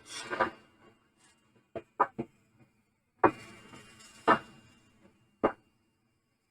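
A series of separate sharp knocks and clunks, about seven in all. The loudest come at the start and about three seconds in, and a short rustling hiss follows the one about three seconds in.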